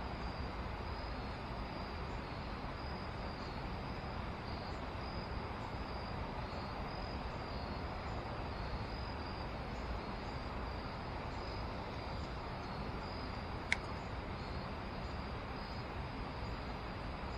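Steady rush of flowing river water below a dam, with insects chirping in a thin, pulsing trill over it. A single sharp click comes near the end.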